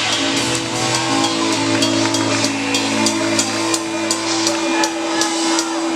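Live heavy metal band closing a song: one long held note rings on while sharp cymbal hits come about four a second. The low end drops out near the end.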